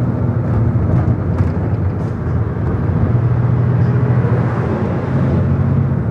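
A vehicle's engine running steadily with tyre and road noise, heard from inside the cabin as a constant low hum.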